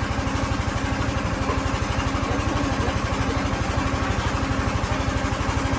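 An engine idling steadily, with an even rapid low throb.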